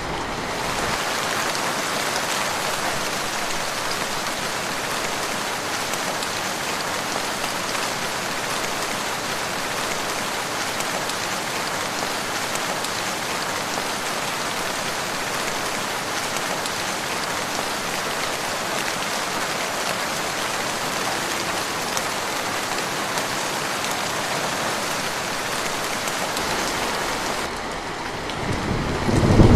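Steady, dense rainfall: an even hiss of many drops pattering on surfaces. Near the end the hiss thins and a low rumble starts to build.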